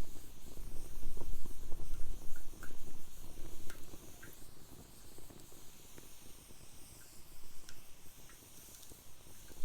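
Wood fire burning in a fire pit, with scattered sharp crackles and pops over a soft hiss. A low rumble sits under the first couple of seconds, then the sound settles quieter.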